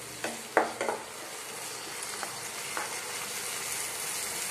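Chopped tomato and onions sizzling in ghee in a nonstick kadai while a wooden spatula stirs them, knocking against the pan a few times in the first second and lightly now and then after.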